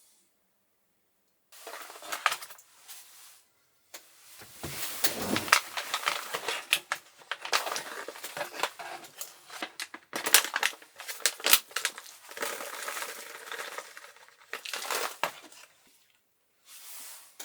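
Hands handling small objects at close range: rustling and crinkling with many sharp clicks and clinks, in irregular bursts that stop about a second before the end.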